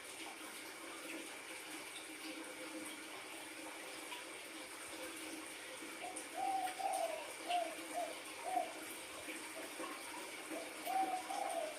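Spotted dove cooing: a run of short repeated coos begins about six seconds in, with another short group near the end, over a faint steady hiss.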